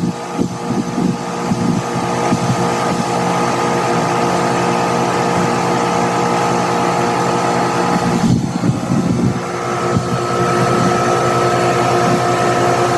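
Outdoor air-conditioning or heat pump unit running with a steady mechanical hum. About eight seconds in the sound shifts briefly, and a higher whine then comes through more strongly.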